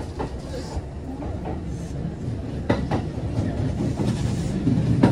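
Kintetsu local electric train heard from inside the car as it pulls away. The low running rumble grows louder as it gathers speed, and the wheels clack sharply over rail joints about three seconds in and again near the end.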